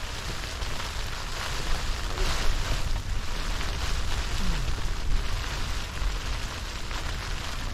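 Strong wind gusting over the microphone: a low buffeting rumble with a steady hiss on top that swells and eases in gusts.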